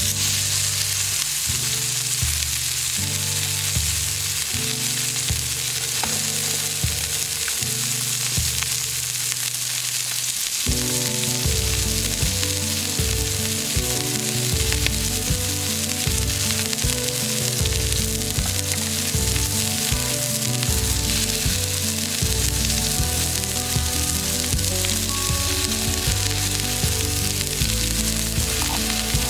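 Steak sizzling steadily as it fries, with background music underneath whose bass line fills out about ten seconds in.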